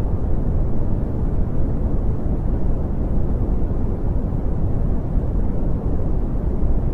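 Brown noise: a steady, deep rumbling hiss with most of its energy in the bass, unchanging in level.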